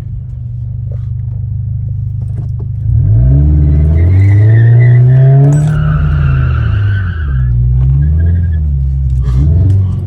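Toyota 86 GT's flat-four engine, fitted with an aftermarket exhaust, idles and then is revved hard about three seconds in, its pitch climbing and falling, with tyres squealing through the loud middle part as the car does a burnout. The revs drop and climb again near the end.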